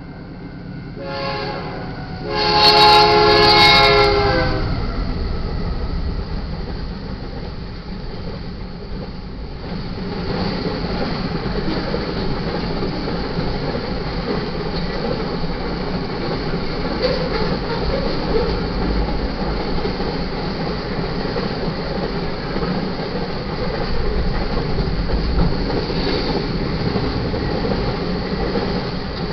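Train horn: a short blast just after the start, then a longer, louder blast about three seconds in. After that comes the steady rumble of the train running.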